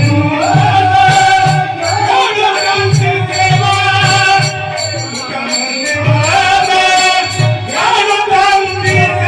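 Marathi devotional bhajan music: long drawn-out sung or melodic phrases that glide in pitch, over a steady tabla rhythm with jingling percussion.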